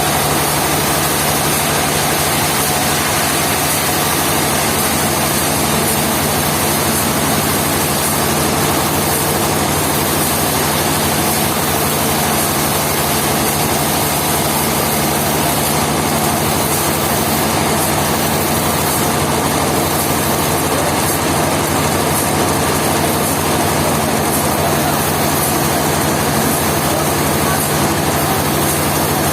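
Engine-driven sawmill machinery running steadily, with an even, unchanging hum and noise throughout.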